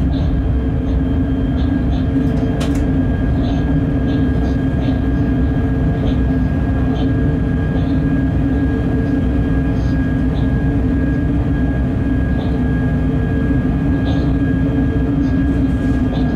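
Freight train locomotive running at speed: a steady rumble with a steady whine over it, faint short ticks every second or so, and one sharp click about three seconds in.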